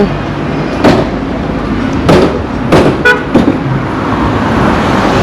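Road traffic noise, with several sharp knocks and a very short horn toot about three seconds in.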